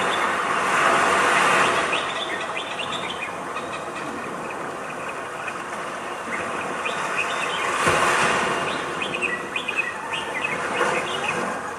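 Birds chirping in many short, quick calls over a hissy wash of noise that swells about a second in and again near eight seconds in.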